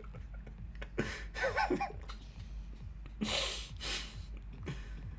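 Soft breathy vocal sounds: a short murmured voice about a second in, then a long breathy exhale or gasp a little after three seconds, over a low steady hum.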